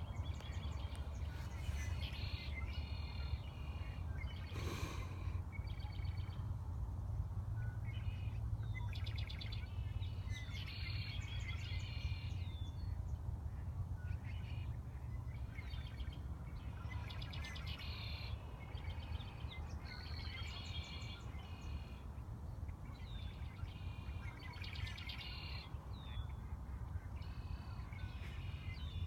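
Songbirds singing short, repeated phrases every second or two, over a steady low rumble, with one brief noise about five seconds in.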